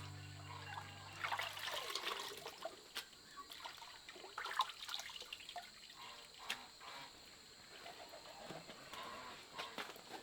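Water trickling and splashing irregularly, faint. A held music note fades out during the first two seconds.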